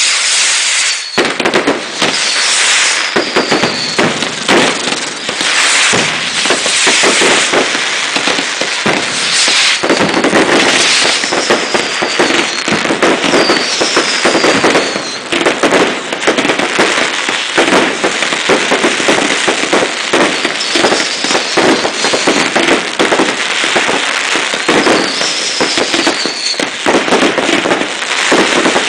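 Fireworks display firing continuously: a dense run of launches and bangs with crackling, and a short whistle falling in pitch every few seconds.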